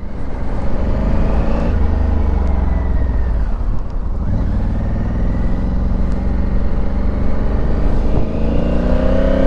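Honda Africa Twin's parallel-twin engine pulling under way: its note climbs, drops at a gear change about a second and a half in, and climbs again near the end as the bike accelerates.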